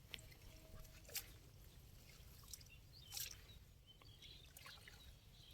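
Near silence with a few faint, brief water drips and trickles, as from a wet cast net.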